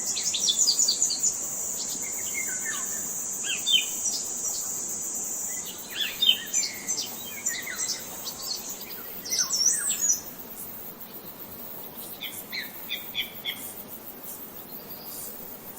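Several songbirds chirping and calling in short, quick phrases, with a steady high insect drone, like crickets, that fades out about halfway through.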